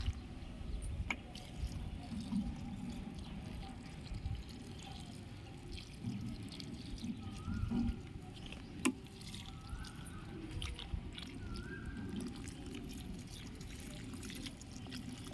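Water trickling and dripping as freshly planted garden plants are watered, with a couple of sharp clicks and a few faint short rising chirps partway through.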